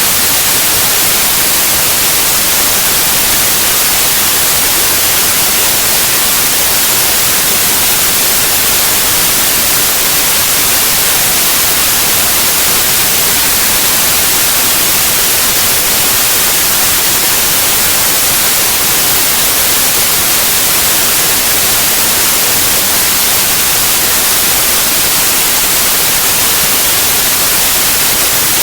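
White noise: a loud, steady, even hiss with no change or breaks.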